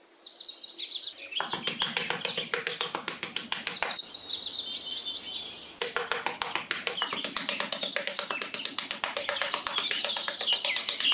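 Birds chirping over light background music, with a dense run of quick scratchy clicks starting about a second and a half in.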